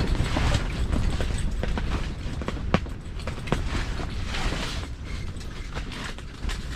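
Strong wind gusting to about 34 km/h against an ice-fishing shelter: a steady low rumble of wind on the microphone, with scattered sharp ticks and snaps from the shelter's fabric and frame.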